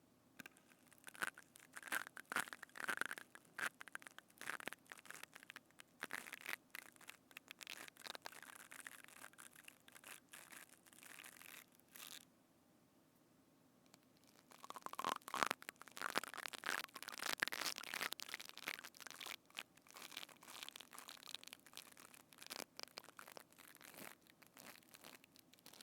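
Close-miked crackling and squishing handling sounds on a binaural microphone, in two spells separated by a pause of about two seconds in the middle.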